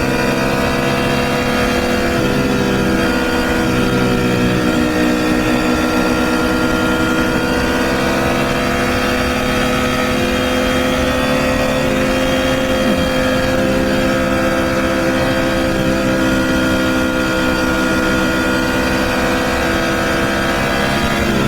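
Motorcycle engine running at a steady cruise, its pitch drifting gently up and down with small throttle changes, over a low rumble of wind and road noise.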